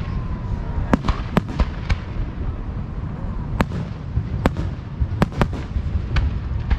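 A professional fireworks display heard close to the launch site: about ten sharp shell bursts at irregular intervals, over a continuous low rumble of booms.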